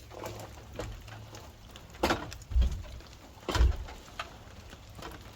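A few irregular dull knocks and thumps, the loudest about two and three and a half seconds in.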